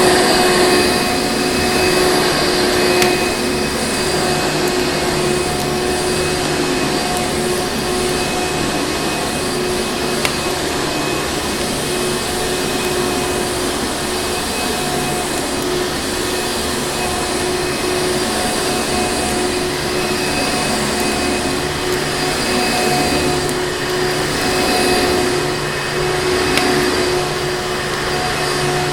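Vacuum cleaner running steadily: a constant motor whine over rushing air, with a few faint clicks.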